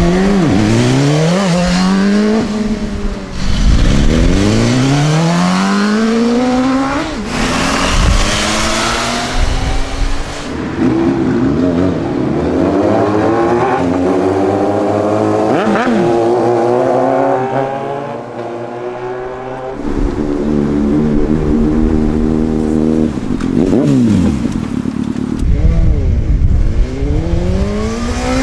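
Superbike engine revving and accelerating hard, its pitch climbing and then dropping again and again as it shifts gears, with stretches of steady running. A loud rushing hiss comes in about eight seconds in.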